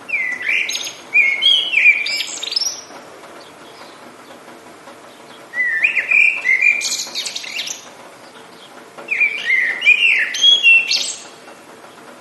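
A songbird singing three separate phrases of quick, sliding whistled notes, a few seconds apart, over a steady background hiss.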